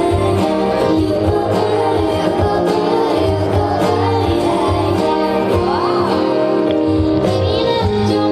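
Live pop band playing a song with a woman singing over a steady bass beat.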